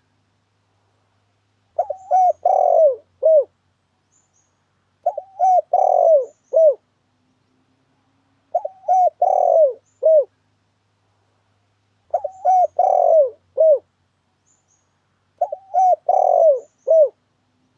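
Spotted dove (tekukur) cooing, as used for a trapping lure call: five identical phrases about three and a half seconds apart, each a quick run of several coo notes.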